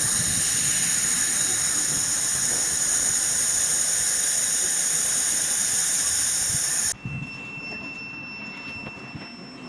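Handheld fiber laser head of an LM-2000 2 kW laser machine firing with its gas jet: a loud, steady hiss that cuts off suddenly about seven seconds in, leaving a quieter, steady high whine.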